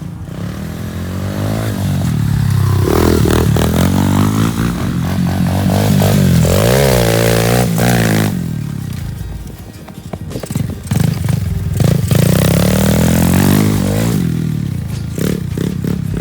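125cc dirt bike engine being ridden hard, its pitch climbing and falling as the rider goes up and down through the revs. It eases off to a lull about ten seconds in, then revs up loud again.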